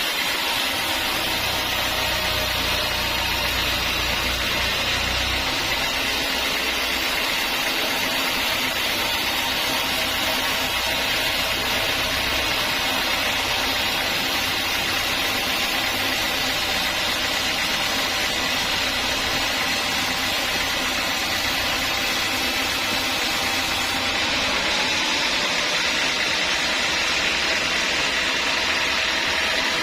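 A sawmill saw running steadily with a continuous mechanical whir; a low hum underneath drops away about five seconds in.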